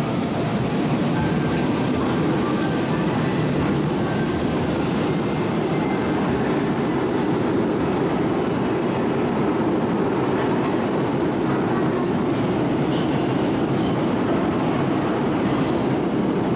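Hanshin 8000-series electric train running out of an underground station platform into the tunnel: a steady rumble of wheels on rail that echoes in the enclosed station.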